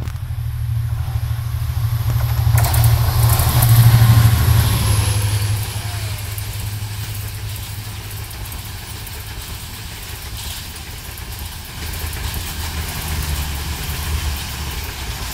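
Diesel-hauled express train passing close by. The locomotive's engine drone swells to its loudest about four seconds in as it goes past, with a thin high whine. Then the coaches roll by, their wheels rumbling and clicking over the rail joints.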